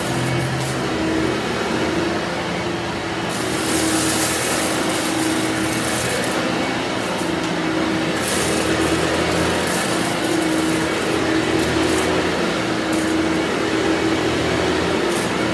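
Vorwerk VK 121 upright vacuum cleaner with ET340 powerhead running steadily, its motor giving a constant hum, with surges of hiss every few seconds as it is worked over the floor.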